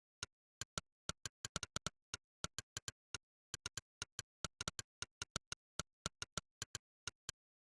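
Monkeytype's synthetic 'click' keystroke sound effect, one sharp click for each key typed. The clicks come at an uneven typing rhythm of about five a second, with quick flurries and short pauses.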